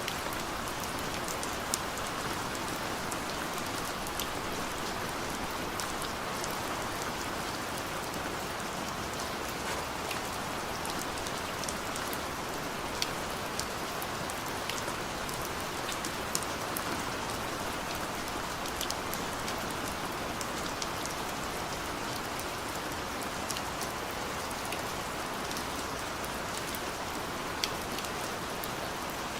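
Heavy rain falling in a steady downpour, with scattered sharper drop hits now and then.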